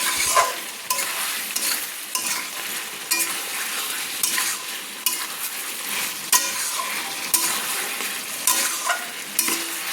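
Chicken pieces sizzling in a kadai, cooking in their own released juices, while a spatula stirs them and scrapes against the pan every second or so.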